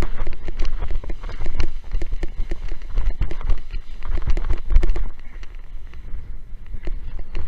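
Windsurf board slapping repeatedly over choppy water, irregular knocks that thin out after about five seconds, with strong wind buffeting the microphone.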